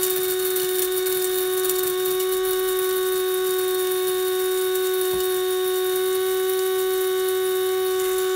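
Electric coffee grinder running steadily while grinding coffee beans, its motor holding one steady whining pitch. It is partway through an automatic timed grind set for four shots.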